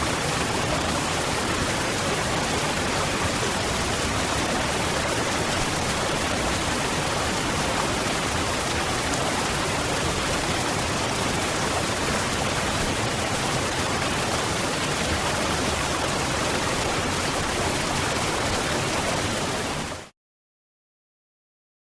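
Waterfall: an even, steady rush of falling water. About twenty seconds in it fades out within a fraction of a second to dead silence for the last two seconds.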